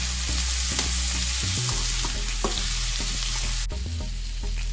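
Potatoes with grated garlic and crushed ginger sizzling in hot oil in a pan, with a spatula stirring and scraping in short clicks. The sizzle suddenly quietens near the end.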